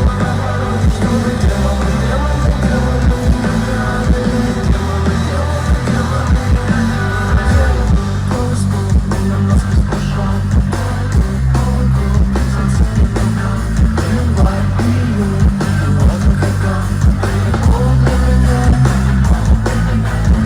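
Rock band playing live: distorted electric guitars, bass and drums, with a singer's voice, and a steady beat of drum hits.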